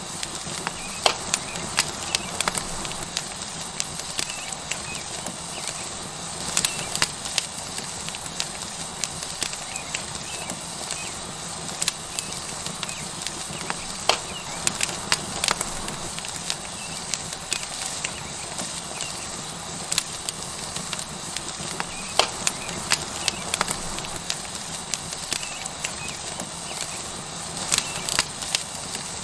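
Tomahawk steak sizzling on a hot rock over a wood fire: a steady hiss, with irregular sharp crackles and pops from the burning wood.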